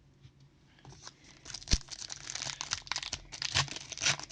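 A foil trading-card pack being torn open and its wrapper crinkled, a dense crackling starting about a second and a half in, with one sharp snap early in the tearing.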